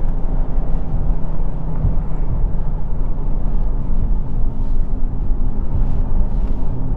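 Dodge Charger Scat Pack's 6.4-litre V8 running in sport mode at a fairly steady pitch while driving: a continuous deep exhaust rumble mixed with road noise.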